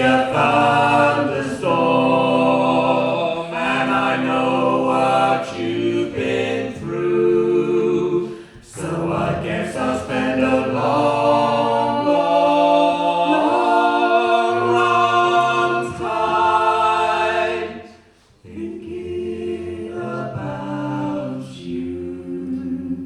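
A small vocal group singing in close harmony, unaccompanied, on long held chords that shift from one to the next. The singing breaks off about 18 seconds in, then comes back more softly for a closing phrase that ends right at the close.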